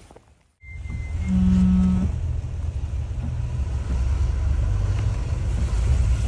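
Heavy diesel machinery running with a steady low rumble. About a second in, a short, low, held hooting tone sounds for under a second.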